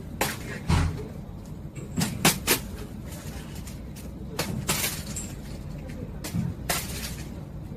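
Steady low rumble with scattered knocks and clicks, roughly eight of them, spread irregularly through the stretch.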